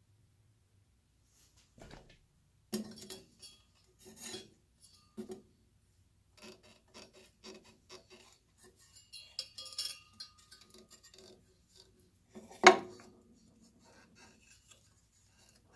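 Hand work on small hard parts: scattered clinks, scrapes and rubbing, with one sharp, much louder knock about thirteen seconds in.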